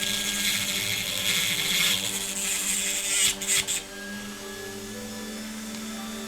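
A small power tool runs against the metal of a diecast toy casting for about four seconds and then stops, with background music playing throughout.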